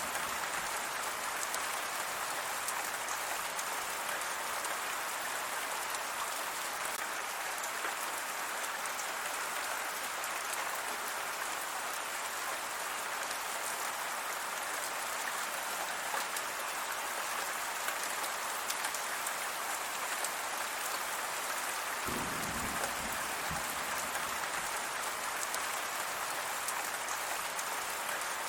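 Steady rain falling, an even hiss of many drops with no let-up; a little more low rumble joins in about two-thirds of the way through.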